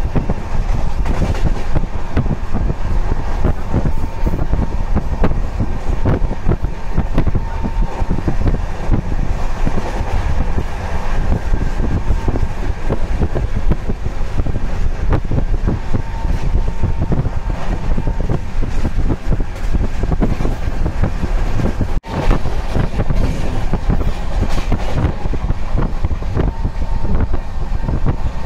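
Passenger train in motion: the steady rumble and rattle of wheels on the rails with wind noise, with a faint thin whine over it. The sound breaks off sharply for a moment about 22 seconds in and resumes.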